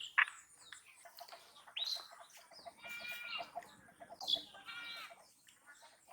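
Birds calling: scattered short chirps and two longer, even-pitched calls about three and five seconds in, among scattered clicks.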